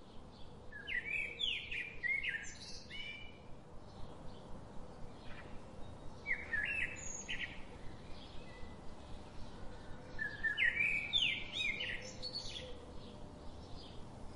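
A songbird singing: quick phrases of rising and falling whistled notes in three bouts, about a second in, around six seconds in, and again from about ten to twelve seconds, over a faint steady hum.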